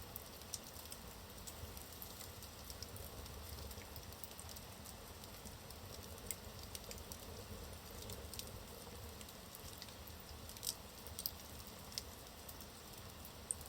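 Wood logs burning in a fireplace: a soft, steady low rumble with scattered small crackles and pops, two sharper pops coming close together a little past the middle.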